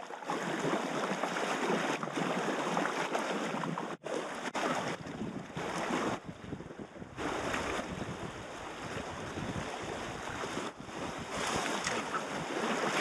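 Fast river water rushing over a rocky riffle around a packraft, a steady hiss of water, mixed with wind buffeting the microphone.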